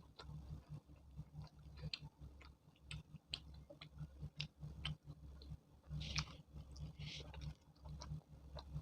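A person chewing and eating close to the microphone: irregular soft wet mouth clicks and smacks, with two short hissy sounds about six and seven seconds in. A faint steady low hum runs underneath.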